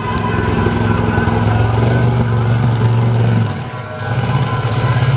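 Monster truck engine running at steady high revs, easing off briefly about three and a half seconds in, then coming back up.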